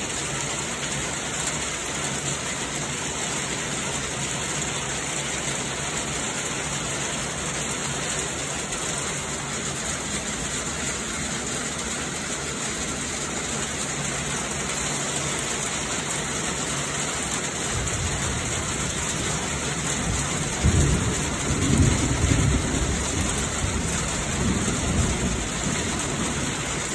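Heavy rain pouring steadily in a thunderstorm. About twenty seconds in, a low rumble of thunder rolls for several seconds.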